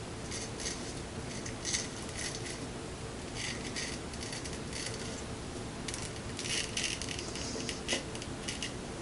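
Hand-forged straight razor scraping hair off a leg in a series of short, irregular scratchy strokes. The blade has only been ground on a 120-grit belt and not properly sharpened.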